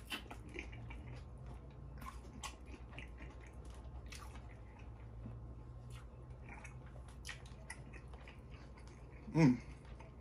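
A person biting and chewing soft boiled lobster tail meat dipped in sauce, close to the microphone, with many small wet mouth clicks and smacks. Near the end comes one short, louder vocal sound.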